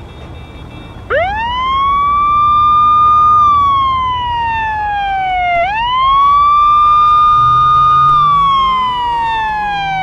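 Siren wailing: about a second in it sweeps up quickly, holds high, then slides slowly down, and it rises again about five and a half seconds in before sliding down once more.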